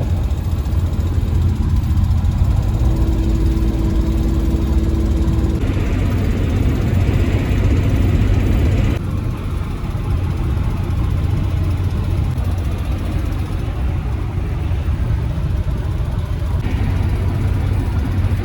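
Steady low rumble of a GMC Savana camper van being driven, engine and road noise heard from inside the cabin, easing slightly about nine seconds in.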